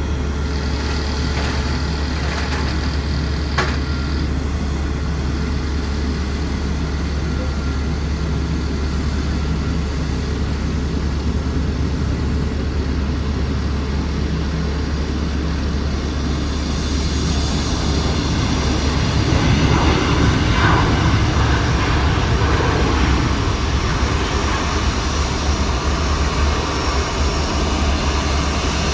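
Rolls-Royce Trent XWB jet engines of an Airbus A350-900, a steady rumble that grows louder about two-thirds of the way in.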